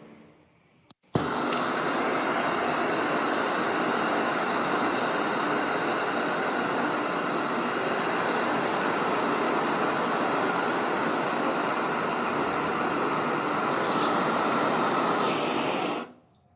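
A workshop tool running with a steady, loud hissing rush that starts suddenly about a second in and cuts off near the end.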